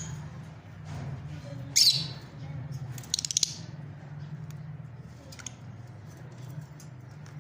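Fischer's lovebirds squawking and chirping: a loud harsh call about two seconds in, a quick run of chirps a second later, then fainter scattered calls, over a steady low hum.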